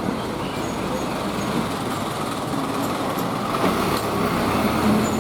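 Steady street traffic noise: a continuous hum of passing road vehicles with no single event standing out.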